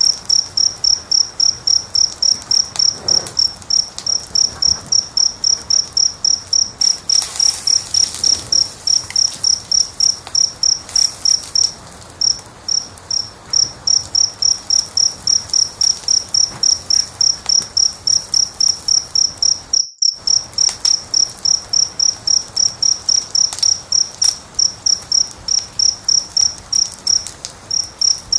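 A cricket chirping steadily, about three chirps a second, over the faint crackle of a wood fire. The chirping breaks off for a moment a little before halfway, and the whole sound cuts out for an instant about two-thirds in.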